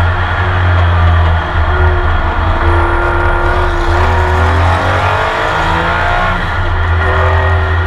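Porsche 911 RSR flat-six racing engine heard from onboard, running hard and loud, with a brief drop about a second and a half in and the pitch sweeping down and back up near the middle as the car shifts gears.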